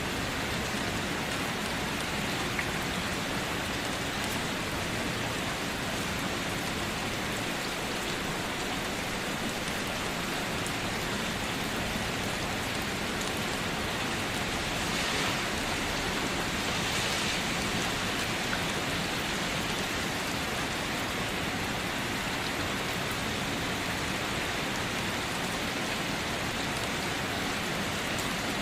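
Steady rain falling, an even hiss that swells slightly about halfway through.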